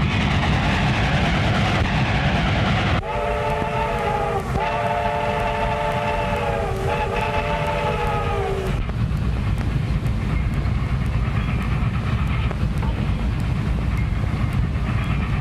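Train running with a steady low rumble, its whistle blowing three blasts in close succession from about three seconds in until about the middle.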